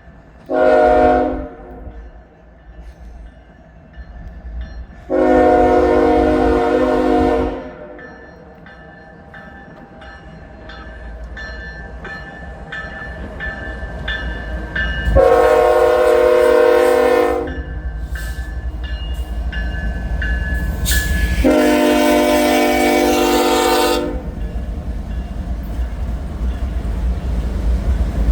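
Freight locomotive air horn sounding a chord of several notes: one short blast, then three long blasts of about two seconds each. Between the blasts the approaching train's rumble grows steadily louder.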